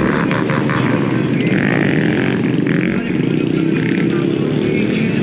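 Motorcycle engine running with steady wind noise on the microphone.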